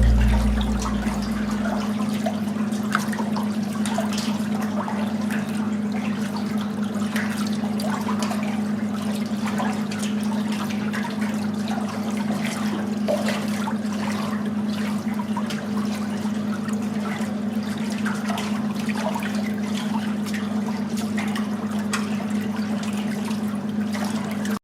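Running water flowing steadily, with many small splashes and gurgles through it.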